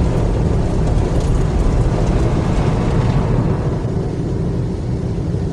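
Automatic car wash machinery running, heard from inside the car as a loud, steady low rumble with a thinner hiss above. It eases slightly about three seconds in.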